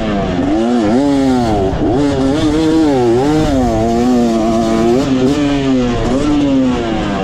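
Dirt bike engine on a motocross track revving up and down again and again, its pitch rising and falling about every second as the rider works the throttle. It settles into a steadier, lower note about five seconds in, then drops off near the end.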